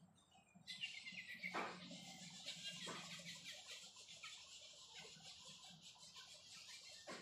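A flock of birds chattering in a dense, rapid stream of high calls that starts about a second in. A few sharp taps sound through it, and soft rain falls lightly underneath.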